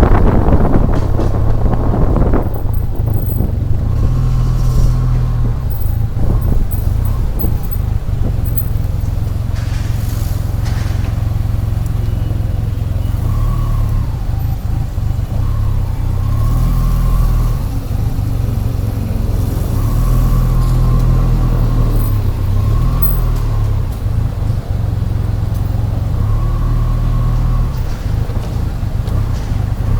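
SYM Maxsym TL 500 maxi-scooter's 465cc twin-cylinder four-stroke engine running at low, fairly steady revs. Loud wind noise on the microphone dies away over the first couple of seconds, and the engine pitch rises and falls slightly about halfway through.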